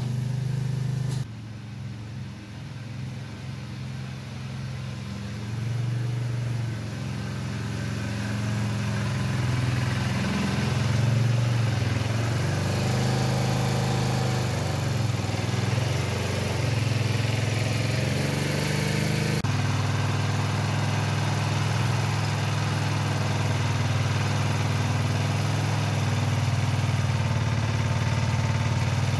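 Craftsman garden tractor's small engine running after its carburetor was cleaned. Its speed rises and falls through the middle stretch. The sound changes abruptly about a second in and again near two-thirds of the way through.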